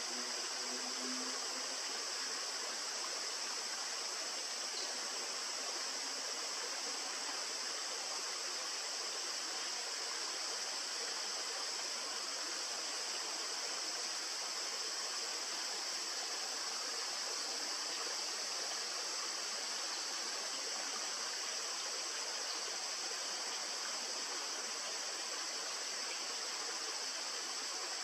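Steady rushing of a stream or river, an even hiss with no breaks, with a constant high-pitched band of sound on top.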